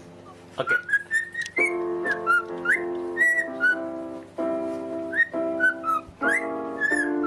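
A pet bird whistling short notes that slide up and down, along with music that plays held chords changing every second or so.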